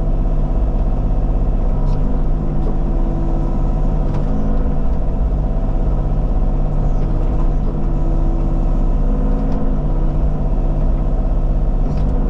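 The diesel engine of a Bobcat compact machine runs steadily while digging. Parts of its tone swell and fade every few seconds as the hydraulics take load. A few faint clanks come through over the engine.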